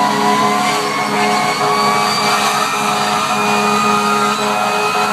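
Fire engine siren: a wailing tone that climbs slowly and steadily in pitch, with a second, lower siren tone sounding in short repeating pulses over the truck's running engine.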